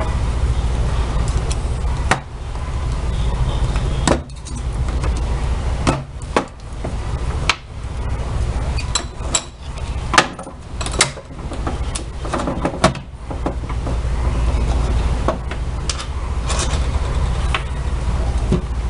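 Metal tools and parts clinking and knocking irregularly while a washing machine transmission is taken apart to replace a worn part, over a steady low hum.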